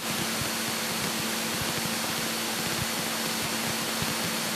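Steady cabin noise of a Cessna 172K in level cruise: its four-cylinder Lycoming engine and propeller running evenly at about 2,050 RPM, heard as a constant hiss with a faint low hum.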